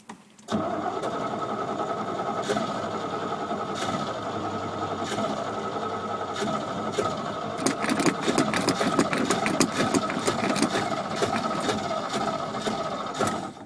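Starter motor cranking a 1979 Chevy 350 small-block V8 in the cold, churning steadily for about thirteen seconds without the engine catching, then stopping abruptly. The engine is flooded from pumping the gas pedal.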